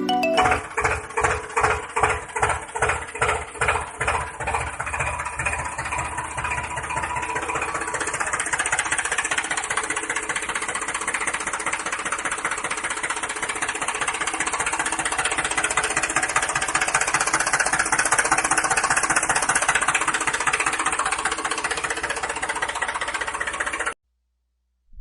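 Tractor engine chugging, at first about two beats a second, then quickening into steady running. It cuts off abruptly near the end.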